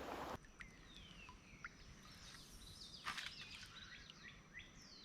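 Faint birdsong: scattered short chirps and falling whistled calls. Under the first half second there is a rush of water-like noise that cuts off abruptly.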